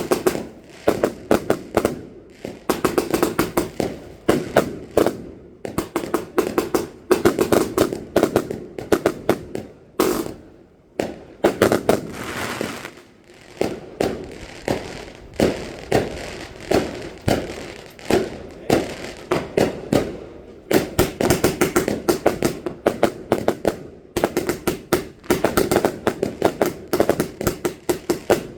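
Fireworks going off in dense, rapid volleys of crackling bangs, one cluster after another about every second or so, without a break.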